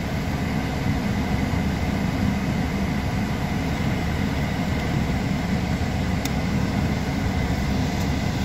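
Steady low engine rumble with an even hiss, heard from inside a car's cabin.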